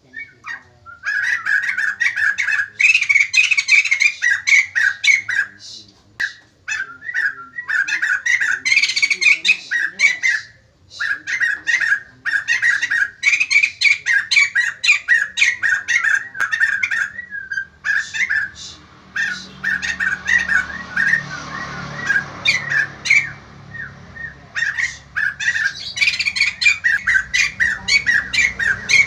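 White-crested laughingthrush (poksay jambul) calling loudly in rapid, repeated chattering bouts separated by short pauses.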